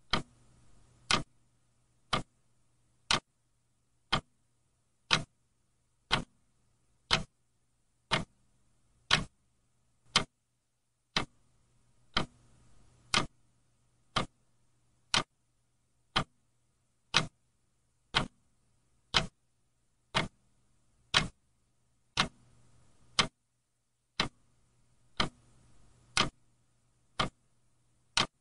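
Clock ticking steadily at about one sharp tick per second, with a faint low hum between the ticks.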